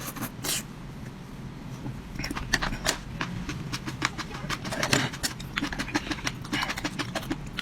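A person eating close to the microphone: irregular chewing with many sharp clicks, denser from about two seconds in, over a low steady hum.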